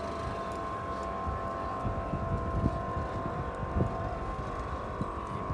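A steady high-pitched motor whine, with wind buffeting the microphone in low thumps.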